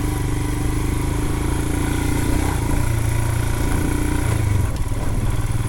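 Royal Enfield Himalayan's 411 cc single-cylinder engine running at low revs, the throttle eased off and on a little about halfway through, as the bike is taken slowly through a muddy rut.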